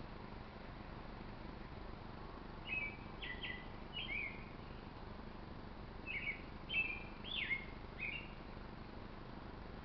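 Small birds chirping: short, quick down-sliding call notes in two clusters, over a steady background hiss.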